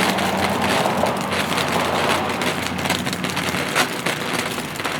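A burning firework spraying sparks: a steady hiss with a dense crackle of small pops.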